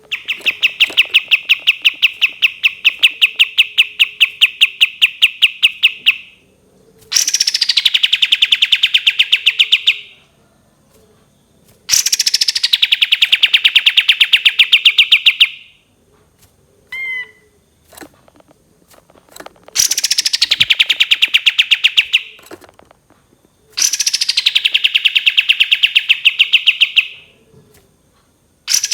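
A kapas tembak songbird singing its 'tembakan': long runs of rapid, evenly repeated high chirps, about five a second, each run lasting several seconds with short pauses between. Most runs open with a quick downward sweep.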